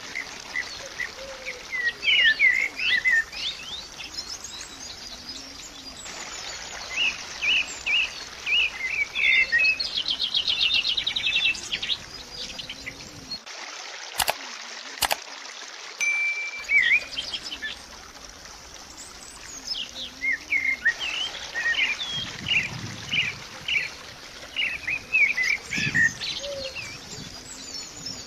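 Birds chirping and trilling in bursts over a steady background hiss, with a few seconds' lull in the chirping past the middle.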